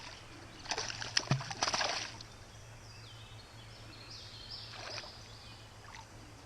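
Water splashing and sloshing for about a second, then a bird singing faintly a few seconds later.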